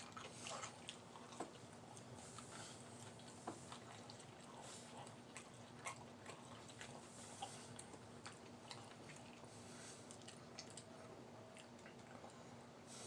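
Faint chewing and biting, with small scattered clicks from people eating fried chicken strips and fried potatoes, over a faint steady hum.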